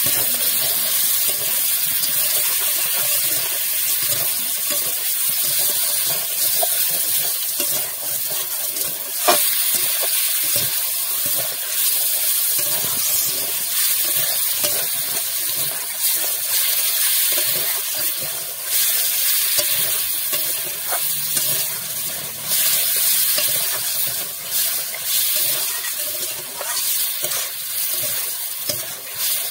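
Chicken pieces sizzling in hot oil in a metal karahi, with a metal spatula scraping and clattering against the pan as they are stirred, and one sharp clack about nine seconds in.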